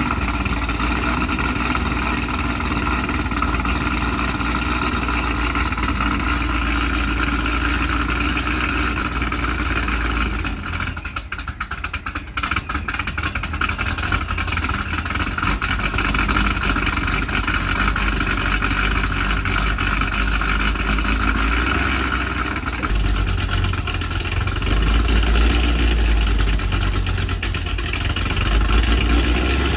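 C6 Corvette Z06's built 7-liter iron-block LSX V8 idling on a sub-freezing cold start, its oil still cold. The running level dips briefly about a third of the way in, and the low rumble swells a few times in the second half.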